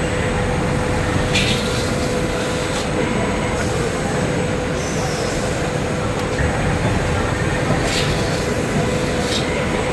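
Steady din of running industrial machinery and hall noise, with a constant hum. A few short hisses and one brief falling squeal about five seconds in.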